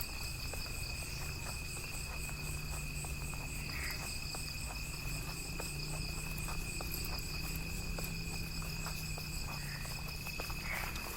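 Jungle ambience: a steady, high-pitched chorus of insects trilling, with scattered small clicks and a faint low hum underneath.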